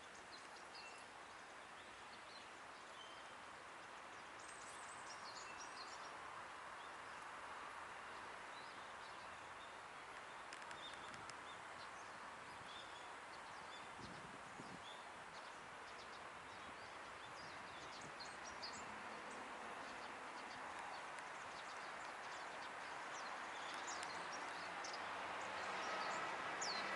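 Faint outdoor ambience: a steady background hiss with scattered short bird chirps.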